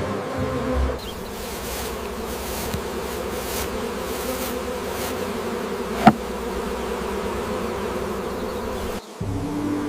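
Steady buzzing like bees or other flying insects, with one sharp click about six seconds in.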